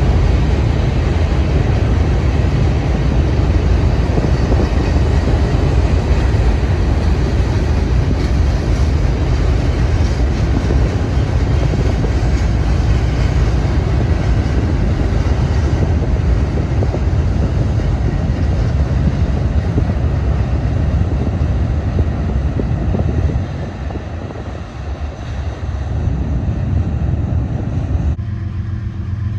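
Freight cars rolling across a steel truss railroad bridge: a loud, steady rumble of wheels on rail. It eases off about three-quarters of the way through, then gives way abruptly near the end to a steady low hum.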